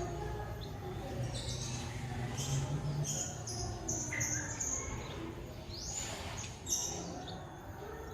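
White-rumped shama (murai batu) singing: a run of short, high whistled notes, some held steady and others sliding down or up in pitch, over a low background hum.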